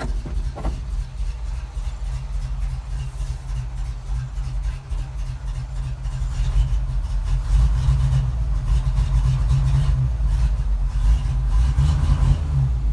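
Ford FE big-block V8 of a 1971 Ford F700 fire truck idling, a steady low engine sound that gets louder about seven seconds in.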